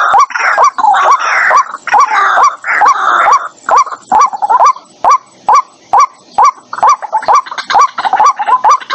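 White-breasted waterhen calling: short hooked notes repeated about twice a second, mixed with rough, rasping calls that thin out about four seconds in, leaving the clean repeated notes. This is a lure recording of the species' territorial calling, as played from a trap speaker.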